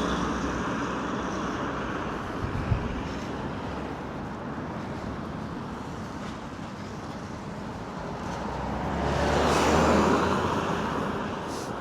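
Road traffic: a passing car's noise fades away at first. Another vehicle then approaches and goes by about nine to ten seconds in.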